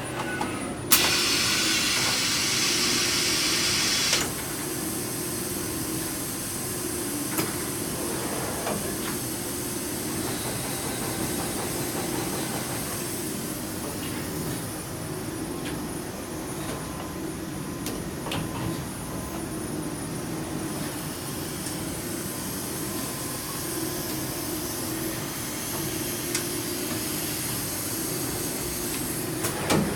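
Schaublin 34-CNC machining centre running. About a second in, a loud hiss lasts some three seconds, followed by a steady machine hum with occasional light clicks.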